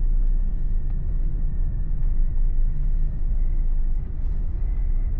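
Car engine and tyre road noise heard from inside the cabin: a steady low rumble.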